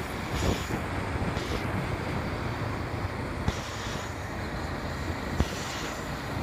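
Steady wind buffeting the microphone, with road noise from a motorcycle under way, and a couple of short knocks partway through.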